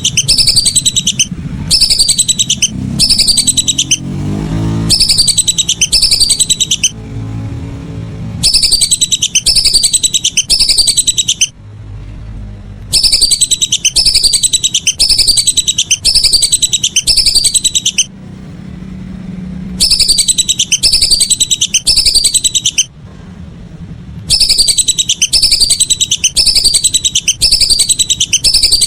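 Lesser whistling duck (belibis) calls played as a loud lure track: rapid runs of high, falling whistles in phrases of one to three seconds, repeating with short pauses between them.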